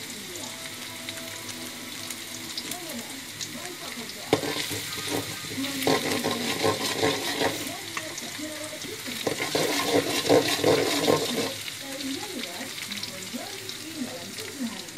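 Garlic and shallots sizzling in hot oil in an aluminium wok, with a metal spatula stirring and scraping against the pan. The frying gets louder in two stretches as they are stirred, with a single sharp knock of the spatula on the wok about four seconds in.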